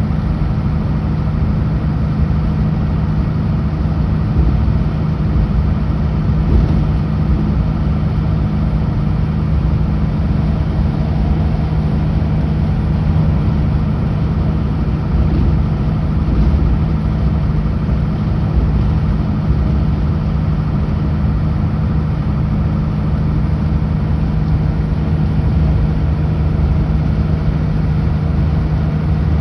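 Kenworth W900L semi truck's diesel engine running steadily at highway speed: an even low drone with road noise, no change in pitch or level.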